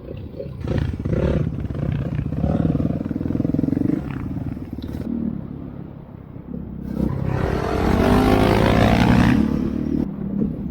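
Dirt bike engine running under throttle, easing off about four seconds in. It then revs up with a rising pitch, loudest around eight to nine seconds in, and backs off near the end.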